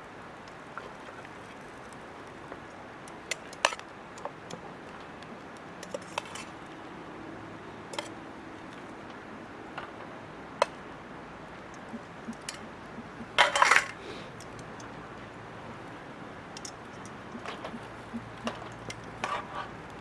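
Metal camp cookware and utensils clinking now and then, with a louder clatter about two-thirds of the way through.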